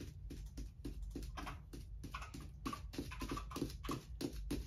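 A quick, even run of small clicks, about four to five a second, like the silicone bubbles of a pop-it fidget toy being pressed one after another.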